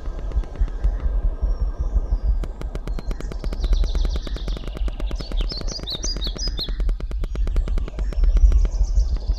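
Birds chirping in short repeated phrases over a heavy, steady low rumble. A fast, even ticking runs through the middle of the stretch.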